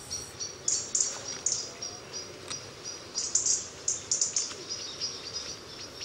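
Small birds chirping: short high-pitched calls repeated in clusters every second or so over a faint outdoor background.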